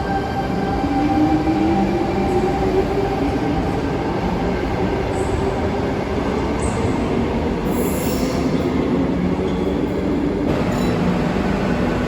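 Electric suburban train running on the underground line: a steady, loud rumble with a whine that rises slowly in pitch from about a second in, as the train gathers speed.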